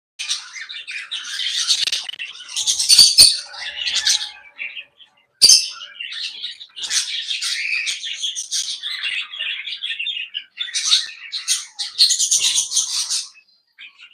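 A flock of aviary parrots chattering and squawking together, a dense mix of chirps and shrill calls with a couple of brief pauses.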